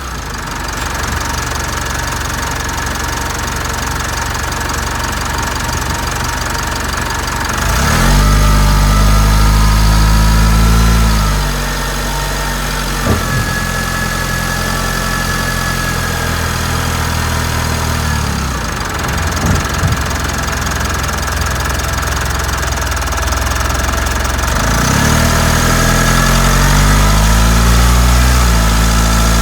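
Mitsubishi Delica D5 diesel engine running, heard from the engine bay, with a steady whine over its note; it gets louder about 8 seconds in, settles back around 11 seconds, and grows louder again near the end. A couple of short clicks come through in the middle.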